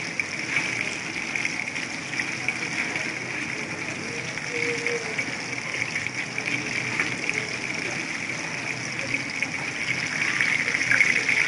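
Chicken lollipops deep-frying in hot oil: a steady sizzle with small crackles.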